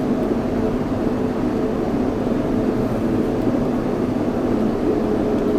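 Yurikamome 7300-series rubber-tyred automated guideway train running, heard from inside the front car: a steady rumble of rubber tyres on the concrete guideway with a few steady motor tones over it.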